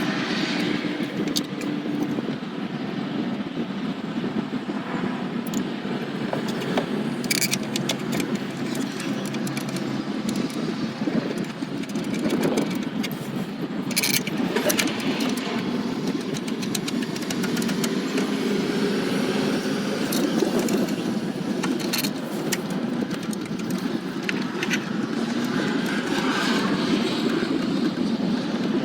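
Steady even background noise with a few sharp clicks and knocks of hand tools and parts being handled.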